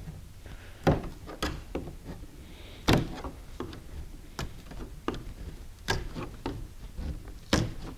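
Wide scraper blade prying an old door-panel backer board off its rusty metal hanger strip: a string of irregular sharp cracks and knocks as the board breaks away and the blade hits the metal, the loudest about three seconds in.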